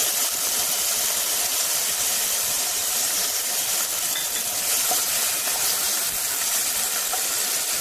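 Chana dal frying in hot oil with a steady sizzle, stirred with a wooden spatula so the grains rattle and scrape against the aluminium pot.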